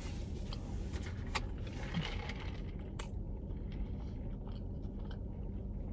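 A mouthful of Big Mac being chewed with small wet mouth clicks, close to the microphone, over a steady low hum.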